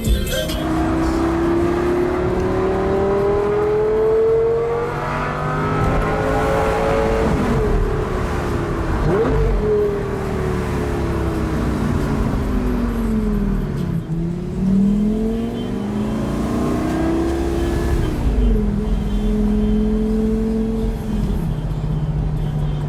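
Supercar engines running and revving, the pitch climbing and falling several times as they accelerate and pass, with two engine notes heard at once near the middle.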